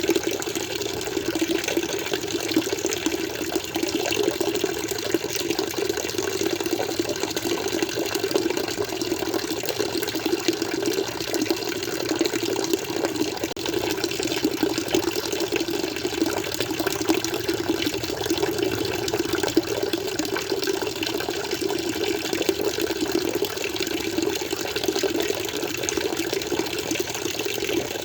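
Water in an aquarium flowing and splashing steadily, without a break.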